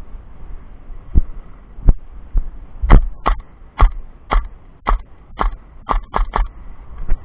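Airsoft gun firing a string of about nine single sharp shots, roughly two a second, the last three quicker, with a couple of duller thumps before them.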